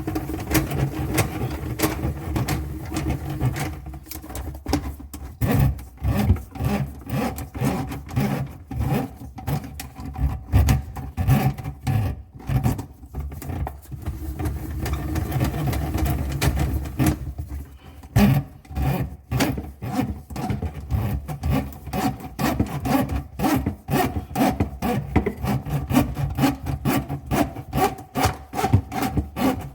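Small drain snake being turned inside a sink drainpipe, its cable rubbing and scraping against the pipe in a continuous run of irregular strokes as it scours sludge off the pipe walls.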